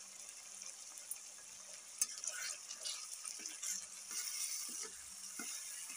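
Ground tomato-and-spice masala frying in oil in a metal kadai, a steady sizzle. About two seconds in, a metal spatula knocks once against the pan and starts stirring, scraping through the masala.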